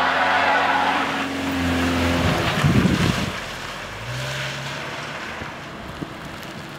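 Subaru Forester's flat-four engine pulling under throttle on a diagonal-traction test ramp, with tyres squealing in the first second as traction control and X-Mode work to find grip. A louder rush of noise comes near the middle, then the engine runs quieter.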